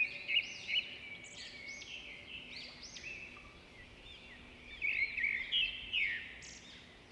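Many small birds chirping at once, a dense run of short overlapping chirps and trills, louder in a couple of spells about five and six seconds in.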